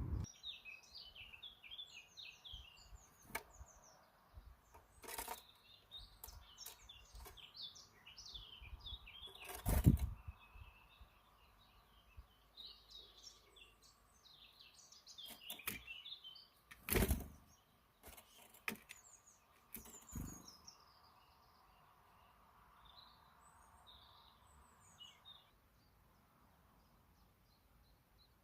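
Small birds chirping and twittering in quick, high runs of notes, broken by several sharp knocks, the loudest about ten and seventeen seconds in. The chirping thins out near the end.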